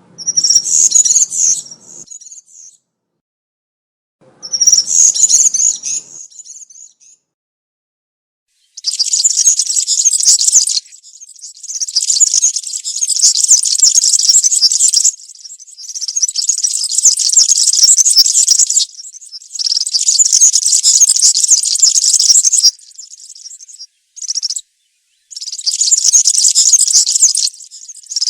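European serin singing, in high, rapid phrases. Two short phrases come in the first seven seconds, then longer song bouts of about two to three and a half seconds each, separated by brief pauses.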